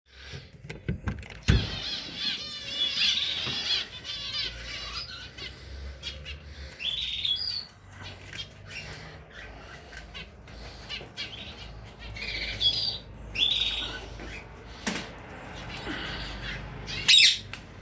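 Small cage birds chirping and twittering in short calls, with a run of fast warbling about two seconds in. A few sharp knocks and clicks sound among the calls, the loudest near the end.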